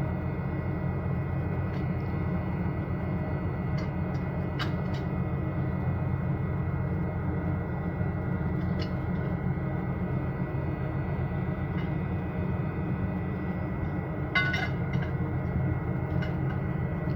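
Ship's machinery droning steadily, a low hum with a few steady whining tones above it, broken twice by brief light metallic clinks, the louder one near the end.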